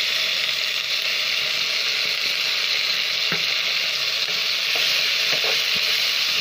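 Chopped onion, capsicum and tomato with spice paste sizzling steadily in hot oil in a frying pan, with a couple of faint knocks of a spatula stirring it.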